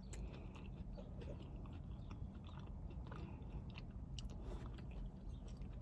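A person chewing food close to the microphone: faint, irregular small clicks and smacks of the mouth.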